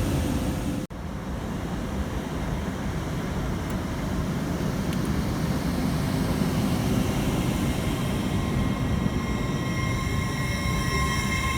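A train running through the station: a steady rumble of wheels on rails, with a whining tone that grows in over the last few seconds. The sound drops out sharply for an instant about a second in.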